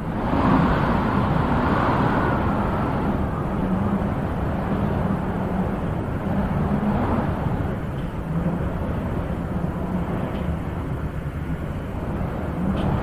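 Wind blowing in a steady rush, with a stronger gust swelling about half a second in and easing off over the next few seconds.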